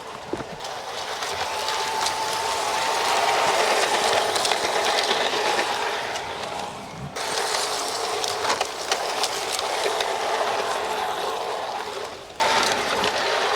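G-scale garden railway model train running on its track: a steady electric motor hum and rumble of wheels on rail, with scattered sharp clicks. The sound changes abruptly twice, about seven and twelve seconds in.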